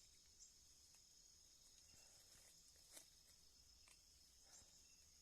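Night insect chorus: crickets giving a steady, continuous high-pitched trill, faint overall, with a few soft clicks and taps, the sharpest about three seconds in.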